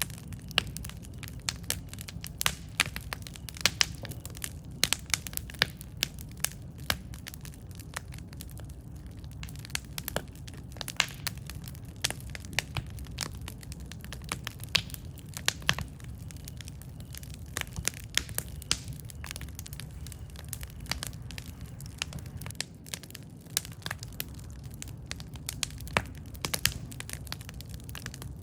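Wood campfire burning, with a constant low rumble of flame and irregular sharp crackles and pops.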